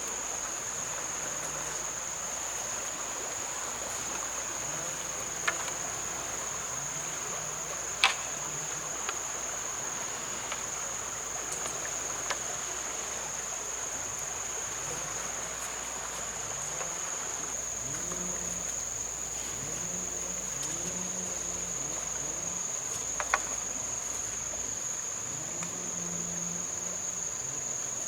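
Steady high-pitched insect drone, with a few sharp clicks or knocks now and then, the loudest one about eight seconds in.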